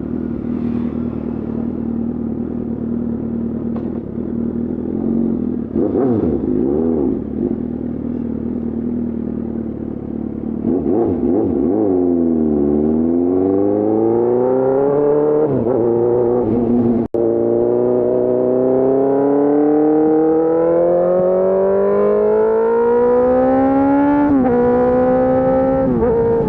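Suzuki GSX-R600 K4 inline-four through an SC-Project S1 race exhaust, idling, then blipped once about six seconds in. From about eleven seconds it gets louder and pulls away, its pitch climbing steadily through each gear with shifts about halfway through and twice near the end.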